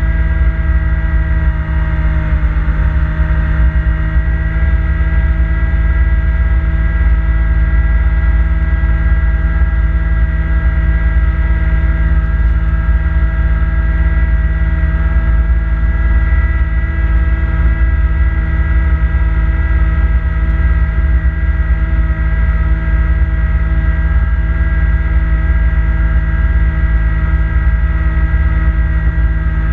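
Kubota B2650 compact tractor's three-cylinder diesel engine running steadily while driving its front-mount snowblower: a loud, unbroken low drone with steady whining tones on top.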